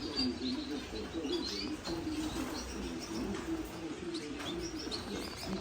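Many small caged finches and canaries chirping together, short high calls scattered throughout over a steady low warble.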